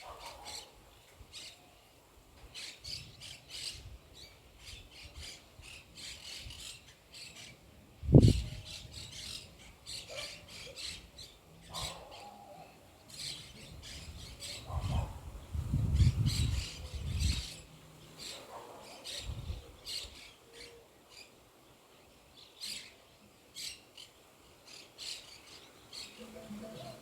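Birds chirping and calling throughout, over a sudden loud low boom about eight seconds in and a longer low rumbling stretch in the middle.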